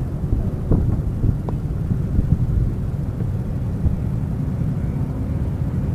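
Steady low rumble of a car's engine and road noise picked up by a dash camera mic, with a few short knocks about a second in.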